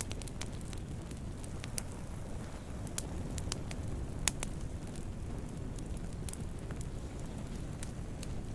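Wood campfire burning: a steady low rumble of flames with irregular sharp crackles and pops scattered through, one louder pop about four seconds in.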